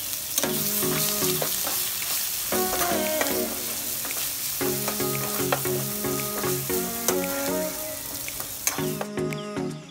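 Green chillies and curry leaves sizzling in hot oil in a pan while a steel spoon stirs and scrapes them, with occasional clicks of the spoon on the pan. The sizzling cuts off suddenly near the end, leaving light background music.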